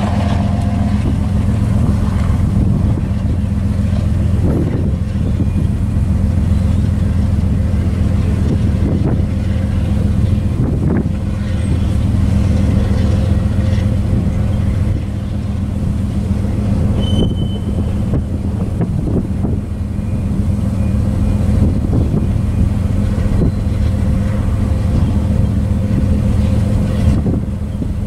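Freight train cars (tank cars and covered hoppers) rolling past: a steady low rumble of steel wheels on rail, with scattered knocks and clanks from the cars.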